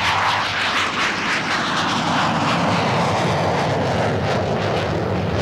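Aircraft engines, loud and continuous, swelling at the start and then falling steadily in pitch as the aircraft passes by.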